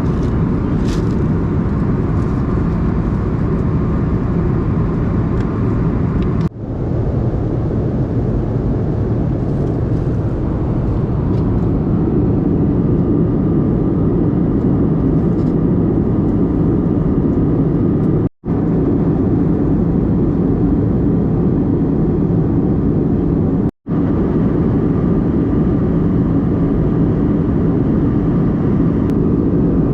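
Steady low rumble of an Airbus A321 in flight heard from inside the passenger cabin: engine and airflow noise. It drops out briefly three times, near six, eighteen and twenty-four seconds in.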